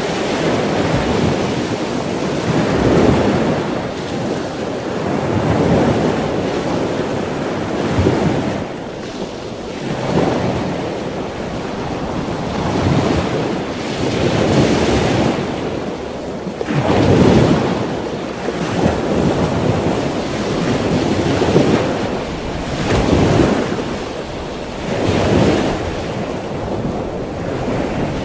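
Ocean surf: waves breaking and washing in, swelling and falling away every two to three seconds, with some wind.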